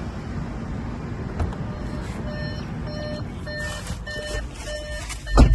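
A car's electronic warning beeps, repeating evenly a little under twice a second over a low engine and road rumble, with a loud thump near the end.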